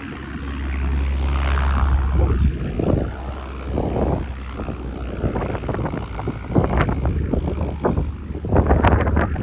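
Cessna 152 single-engine light aircraft, its propeller and four-cylinder piston engine droning as it goes by, loudest for the first couple of seconds, then fading. Wind buffets the microphone in gusts.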